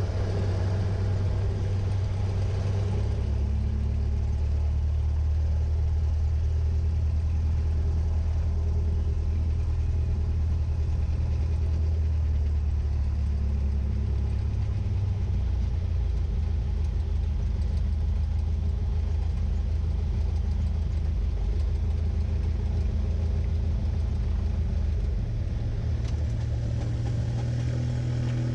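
Cessna 172's piston engine and propeller running at low power in a steady drone. The pitch drops about three seconds in, rises again about halfway through, and rises once more near the end.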